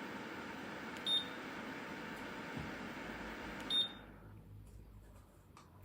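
Ceramic fan heater blowing steadily, with two short high beeps from its controls about a second in and near four seconds; right after the second beep the fan noise dies away.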